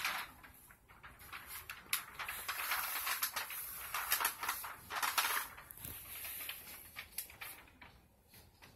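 Cheap pleated paper-like window shade being handled and pulled up, rustling and crinkling with small clicks and scrapes for several seconds, fading out near the end.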